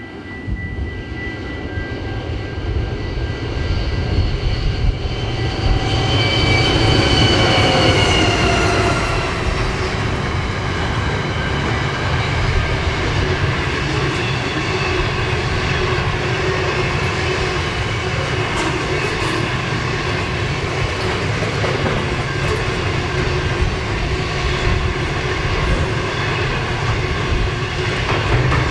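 A pair of Pacific National NR-class diesel-electric locomotives working hard up a steep grade, their engines' whine sliding down in pitch as they pass about seven or eight seconds in. After that comes the steady rumble and clickety-clack of a long string of container wagons rolling by.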